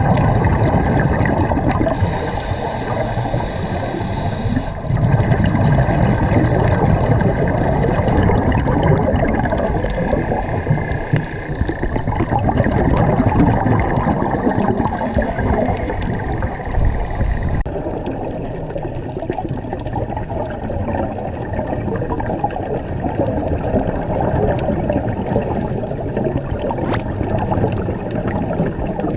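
Water sloshing and splashing close to the microphone, a loud, continuous churning that gets duller about two thirds of the way through.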